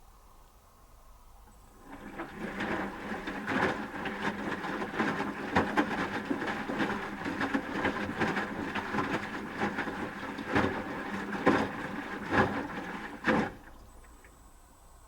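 Asko Quattro W6098X front-loading washing machine in its wash phase: about two seconds in, the motor starts turning the drum, with a steady motor whine and repeated knocks from the tumbling load. The drum stops suddenly about a second and a half before the end.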